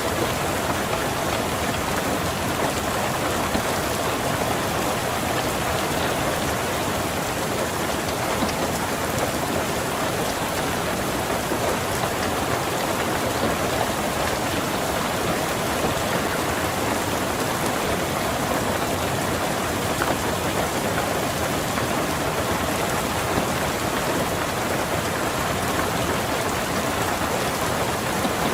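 Steady rain falling on a car's roof and windows, heard from inside the car: an even, unbroken patter of drops.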